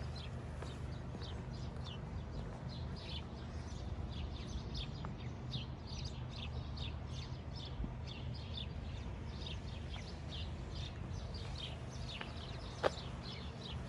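A flock of small songbirds chirping busily, a quick, unbroken string of short falling chirps, over a steady low background rumble. A single sharp click comes near the end.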